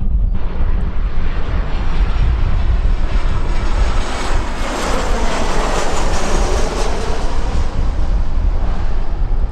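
Jet airliner's engines passing, the noise building to a peak about five to seven seconds in and then easing off, over a steady low rumble of wind on the microphone.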